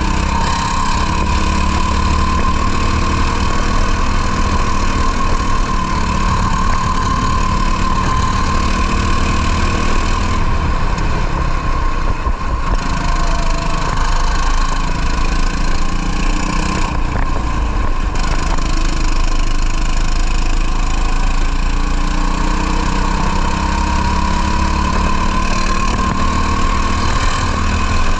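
Racing kart's two-stroke engine running hard on track, its pitch wavering up and down with the revs and easing off briefly twice, about ten and seventeen seconds in, with a low rumble of wind on the microphone underneath.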